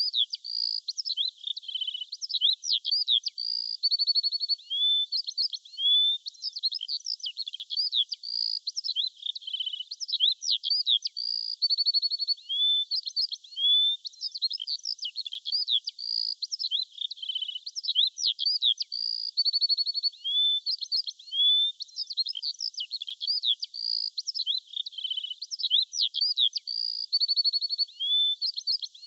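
Dense songbird chorus: many overlapping chirps, quick trills and short upward-sliding whistles, continuous and high-pitched, with no low sounds under it.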